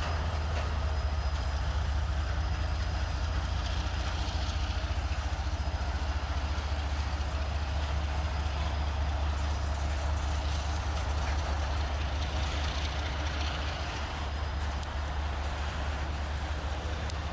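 Train rolling past with a steady low rumble and a noisy roar, easing slightly near the end.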